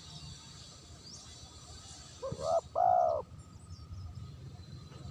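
Spotted dove (terkukur) cooing: two short, arched coo notes close together about two seconds in, the kind of clean call used as a lure (pikat) for the species.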